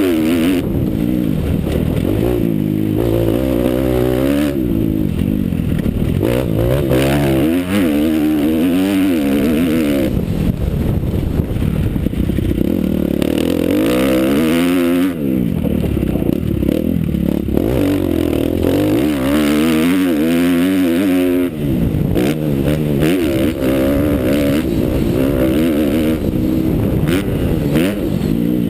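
Motocross motorcycle engine revving hard and falling back again and again, its pitch rising and dropping every couple of seconds as the rider accelerates, shifts and rolls off. Scattered knocks and clatter sound over it.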